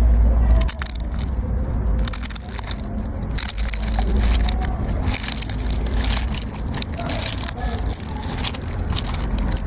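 Dense crunching and crackling, as of something being crushed, made of many quick clicks over a deep low rumble that swells about four seconds in.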